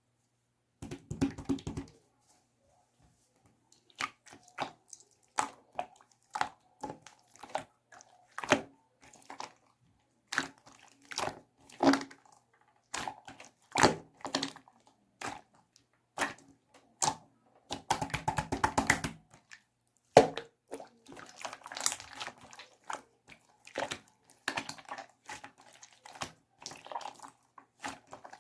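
Slime being squished and pressed by hand, giving a series of wet clicks and pops, with a fast crackling run of pops about two-thirds of the way through.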